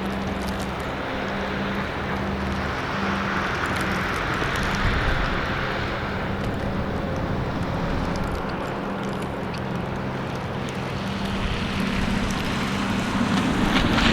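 Storm wind blowing in gusts over a steady low engine hum from traffic. The gusts swell about four seconds in and again near the end.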